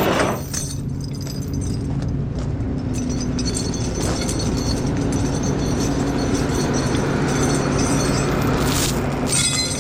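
Hino rollback tow truck's diesel engine running steadily at a low idle, with a short rattling noise near the end.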